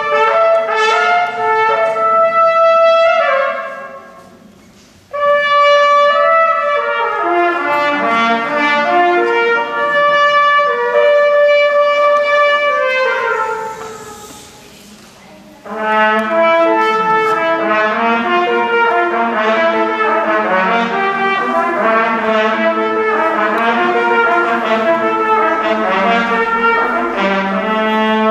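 Live instrumental ensemble music ringing in a reverberant church. The playing stops twice, about four and fourteen seconds in, each time dying away in the reverberation before the next phrase starts.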